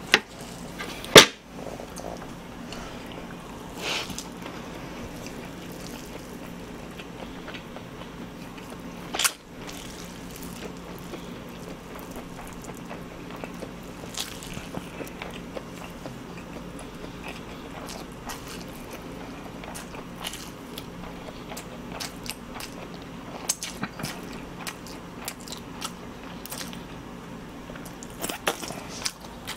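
Close-miked chewing of tough, chewy noodles, with scattered small wet mouth clicks. A single loud sharp knock comes about a second in, and a smaller one about nine seconds in.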